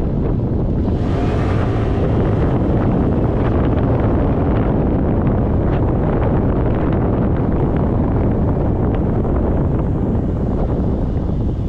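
Wind buffeting the microphone of a camera riding on a moving motorcycle, a steady heavy rumble, with the motorcycle's engine running underneath. The rush brightens briefly about a second in.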